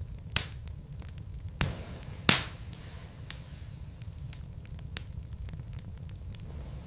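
Logs burning in a fireplace, crackling with scattered sharp pops over a steady low rumble; the loudest pop comes a little over two seconds in.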